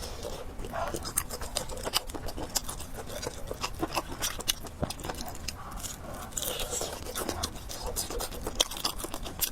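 A person chewing and slurping fried noodles with pork close to the microphone, with many small wet clicks throughout.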